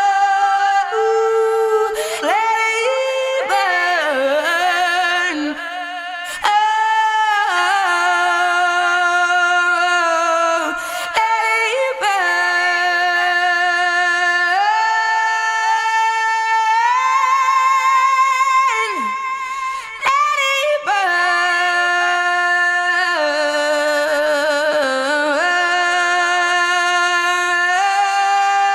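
A cappella voices singing several parts in harmony, holding long notes with vibrato and moving together to a new chord every few seconds, with no instruments.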